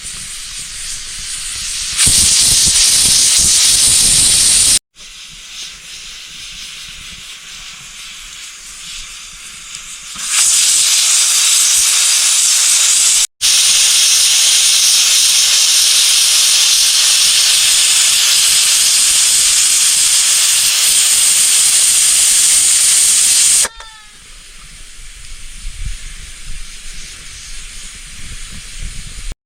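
Loud, steady hiss of rushing water, with sudden cuts about five, thirteen and twenty-four seconds in and a quieter hiss between the loud stretches.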